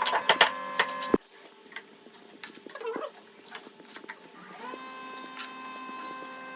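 Small electric power tool motor: it runs with a steady hum and clicking, cuts off suddenly about a second in, and after a few light taps starts up again near the end, rising in pitch and settling to a steady whine.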